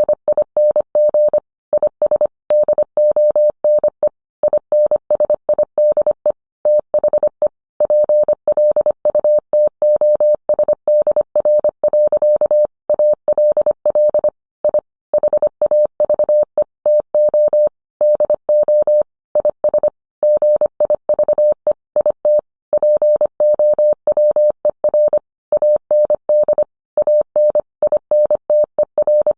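Morse code sent as a single steady beep, keyed quickly on and off in short and long elements with longer pauses between groups.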